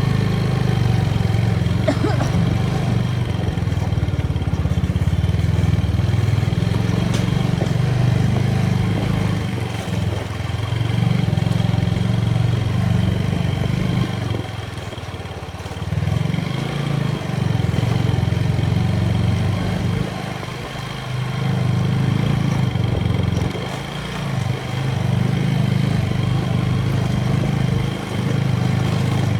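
A TVS Apache motorcycle's single-cylinder engine running while being ridden. The engine sound drops off briefly about halfway through and three more times later on, each time picking up again.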